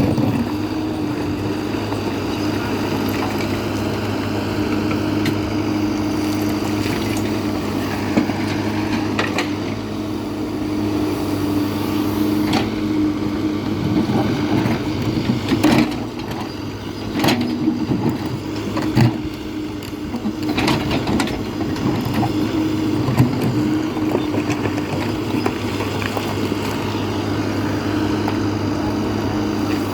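Diesel engine of a backhoe loader running steadily under load, with scattered clunks and knocks from the loading work about halfway through.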